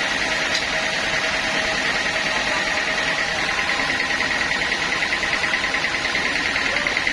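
Sawmill band saw running steadily, giving a constant high whine with a fast flutter over a steady noise of the machinery.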